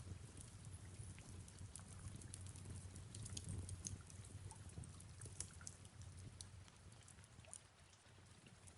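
Faint fireplace crackling with soft rain: irregular small crackles over a low, steady rumble.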